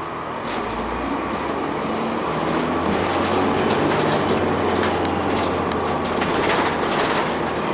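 Cummins ISL9 diesel engine of a 2002 Blue Bird CS transit bus, heard from inside the cabin, with the engine note growing louder about two and a half seconds in. Frequent small clicks and rattles from the bus body run over it.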